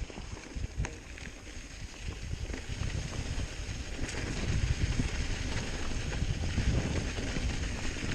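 Wind buffeting the microphone over the rumble and rattle of a hardtail mountain bike riding a dirt trail, with scattered sharp clicks; it grows louder about two seconds in.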